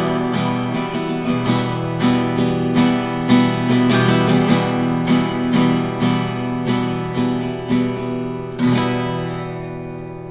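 Acoustic guitar strummed in a steady rhythm, about two strokes a second, with the chords ringing. A last strum a little before the end rings out and fades away.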